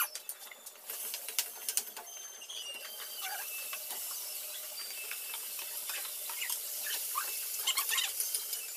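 Metal spatula clicking and scraping in a wok, then potato pieces sizzling steadily in hot oil from a few seconds in, with more clicks of the spatula near the end.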